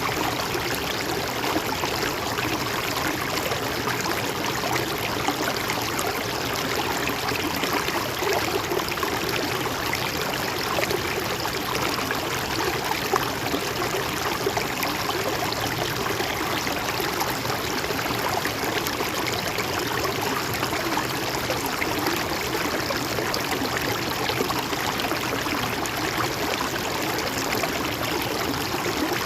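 A river or stream flowing steadily, a continuous even rush of water with no breaks or changes.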